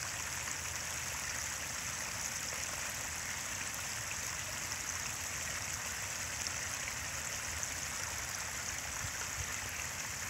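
Small waterfall: a stream's water pouring over a drop and splashing steadily, a constant rushing hiss.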